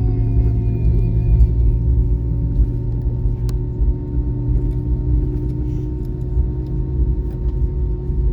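Cabin noise of an Airbus A320-232 taxiing: the IAE V2500 engines at low thrust give a steady low rumble with a constant hum. A faint falling whine fades out in the first two seconds, and there is a single click in the middle.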